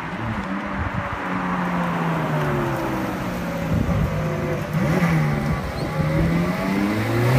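Ferrari 430 Scuderia's naturally aspirated 4.3-litre V8 driving past at low speed, its note rising and falling with the throttle and growing louder near the end.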